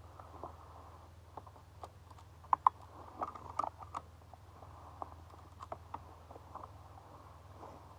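Scattered small clicks and light knocks of tools and metal parts being handled, with two sharper clicks about two and a half seconds in.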